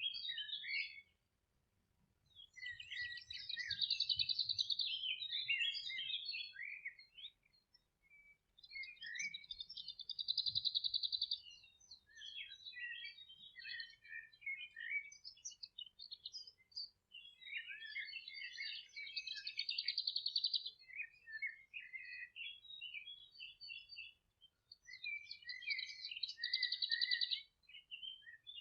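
Songbirds singing: a song phrase of about three seconds, ending in a rapid high trill, comes back roughly every seven to eight seconds, with short chirps in between.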